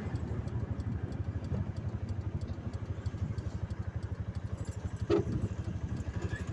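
Vehicle engine running steadily with a fast, even pulse. A brief short sound rises above it about five seconds in.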